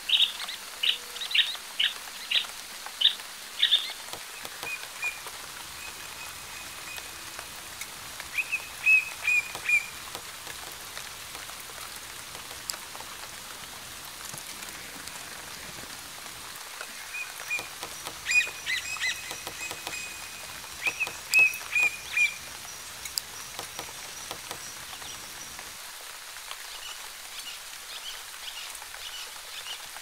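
Forest birds calling: clusters of short, sharp chirps and brief trills, with quieter stretches between, over a steady background hiss.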